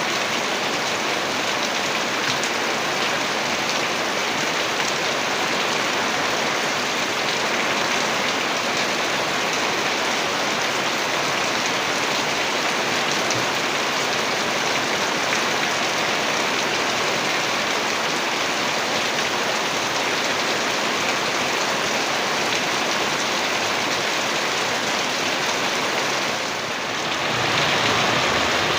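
Heavy rain falling steadily, a dense even hiss of drops, with a brief dip in level about two seconds before the end.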